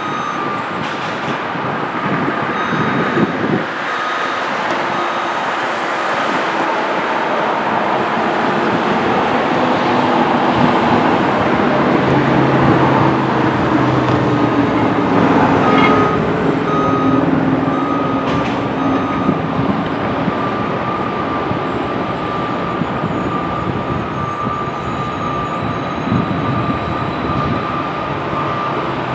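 Steady rumble of a moving train, growing louder towards the middle and easing off again, with a thin high steady tone running through it.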